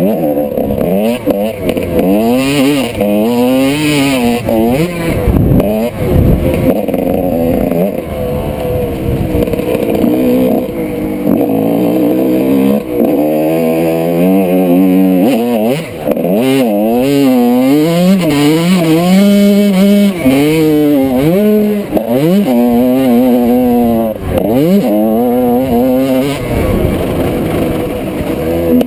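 1995 Honda CR125's single-cylinder two-stroke engine racing, its pitch repeatedly rising and dropping as the rider works the throttle and shifts gears around the motocross track.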